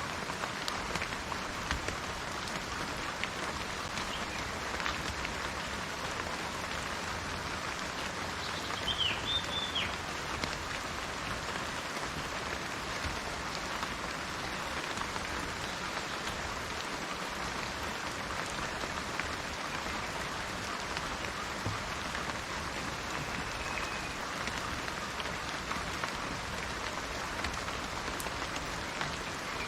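Steady rain falling on garden plants and trees, an even patter. A bird chirps briefly about a third of the way in.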